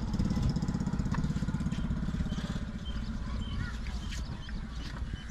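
Old Ruston-type stationary oil diesel engine running with a steady, rhythmic low beat that slowly fades. A few bird chirps in the second half.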